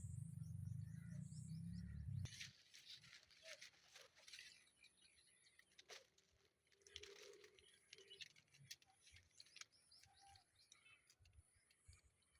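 Faint outdoor sounds: a low rumble for the first two seconds, then scattered soft clicks and a few faint bird chirps.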